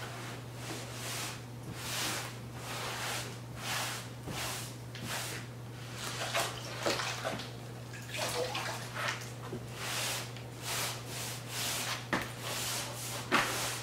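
Repeated wet wiping strokes over cement board, dampening and cleaning it before tile mortar goes on, with a steady low hum underneath.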